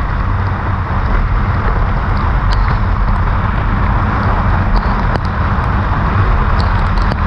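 Kawasaki Ninja 400 parallel-twin engine running steadily under a dense rush of wind and road noise, with scattered faint ticks.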